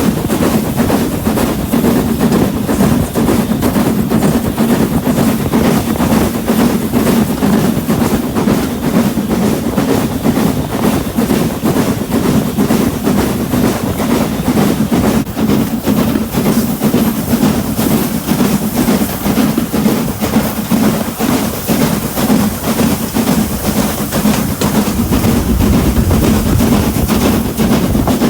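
Heritage train of the Mid Hants Railway running along the line: a steady, loud rumble of wheels on rail with a constant drone.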